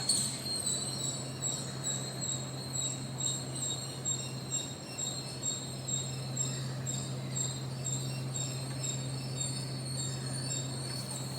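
Steady, high-pitched insect chirping that pulses about three to four times a second, over a low steady hum.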